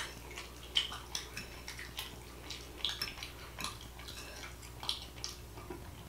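Close-miked eating of chicken and rice: irregular soft, wet chewing and lip-smacking clicks, with light clinks of cutlery on a dish.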